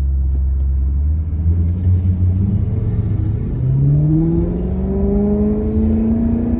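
Maserati Quattroporte Sport GT's V8 engine running with a low rumble, then from about halfway in revving up in a steady rising climb as the car accelerates.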